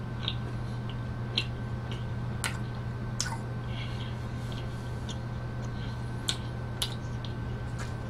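Close-miked chewing of a mouthful of pizza: scattered wet mouth clicks and smacks, about ten across the stretch, over a steady low hum.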